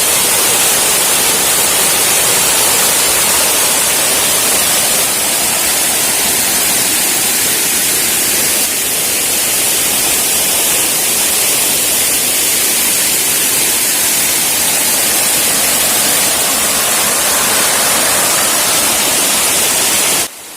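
Waterfall rushing: a loud, steady hiss of falling water, cutting off abruptly near the end.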